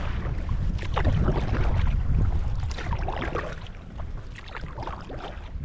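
Kayak paddle strokes splashing and dripping in choppy water, over a steady low wind rumble on the microphone.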